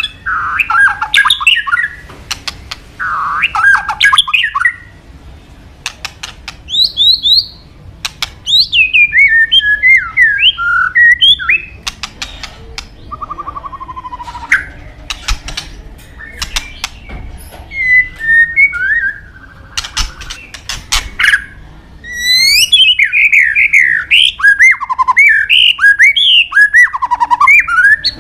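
White-rumped shama (murai batu) singing: bursts of rapid whistled notes that swoop up and down, mixed with sharp clicks, in phrases of a few seconds separated by short pauses.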